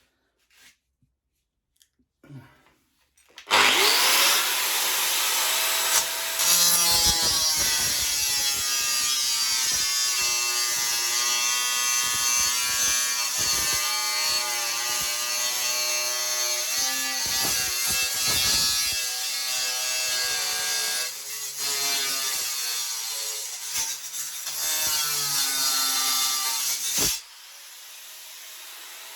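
Electric angle grinder cutting through the steel of a pit bike frame. It starts suddenly about three and a half seconds in and runs loud, its whine sagging and recovering as the disc bites. Near the end it is switched off and winds down quietly.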